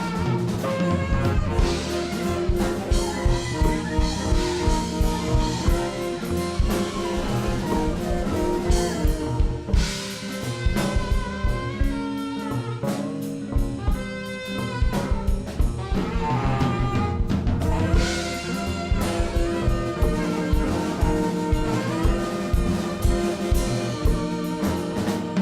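Jazz band playing, with drum kit keeping a steady beat under pitched instrument lines that include horns.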